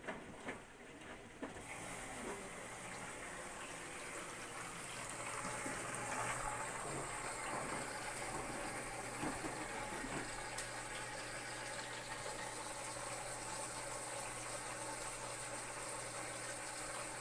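Front-load washing machine filling with water: a steady hiss of water pouring in starts about a second and a half in, over a low steady hum.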